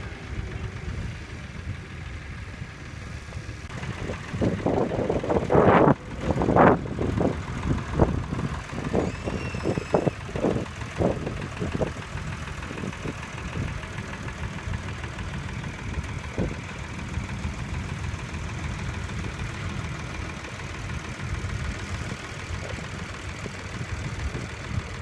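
Vintage tractor engines running at low revs with a steady low rumble. About four seconds in, a louder spell of irregular pulses starts and dies away by about twelve seconds in.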